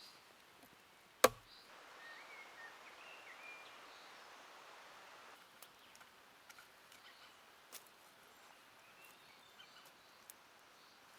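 A single sharp, loud knock about a second in, over a steady outdoor hiss, with a few short bird chirps just after and scattered faint ticks.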